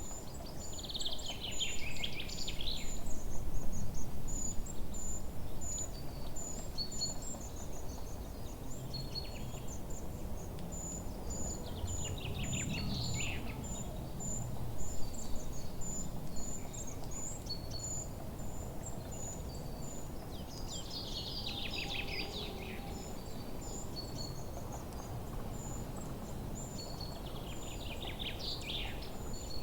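Forest birdsong: a bird repeats a short song of quick notes falling in pitch about every nine seconds, over a steady run of thin high chirps about two a second. A low, steady background noise runs underneath.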